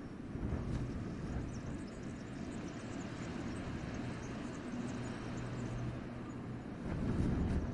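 Winter wind blowing through forest trees in gusts, a steady rushing noise heavy with low rumble; a stronger gust swells about seven seconds in.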